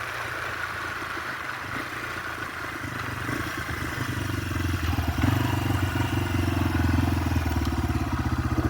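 Yamaha TW200 single-cylinder engine running while riding, under a broad rush of wind noise. It gets louder about halfway through, and its even pulsing beat stands out near the end.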